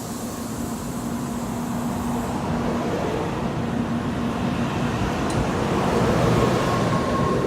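Tokaido Shinkansen train running noise on the station track, building steadily louder, with a steady low hum under it and a higher whine near the end.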